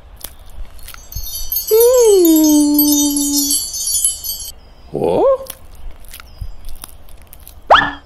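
Cartoon sound effects: a bright shimmering chime run, with a low pitched tone beneath it that swoops up, falls and holds for about two seconds. Then two quick rising squeaky glides follow, about five seconds in and near the end, among small clicks.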